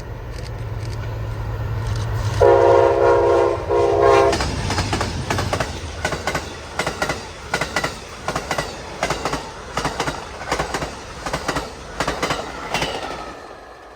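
Amtrak passenger train led by GE Genesis diesel locomotives approaching and passing: the engine rumble builds, the horn sounds a long blast and then a short one about two and a half seconds in, then the cars' wheels click over rail joints about twice a second, fading near the end.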